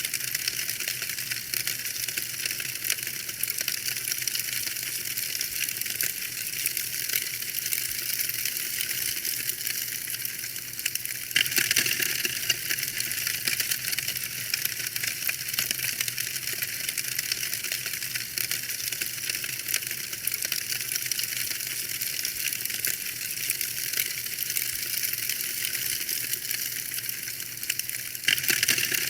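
Wood fire crackling steadily, a dense run of small pops and snaps, with a louder flurry of crackles about eleven seconds in and again near the end.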